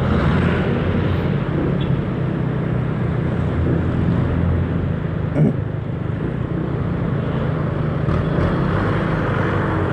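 Yamaha Mio 1 scooter's small single-cylinder engine running steadily while riding, over road noise. A brief knock about halfway through.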